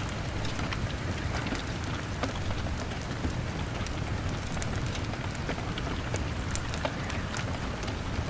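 Steady rain pattering on a window, with a log fire crackling: many small sharp pops and ticks scattered through the rain's even hiss.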